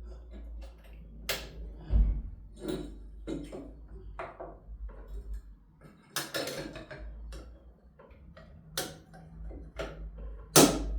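Irregular clicks and knocks from handling work at a domestic sewing machine, over a low steady hum.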